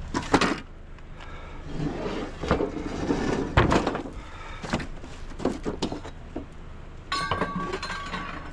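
Knocks and clunks of scrap items being picked up, moved and set down, several sharp ones spread through, with a clattery stretch in the middle. A brief steady high tone near the end.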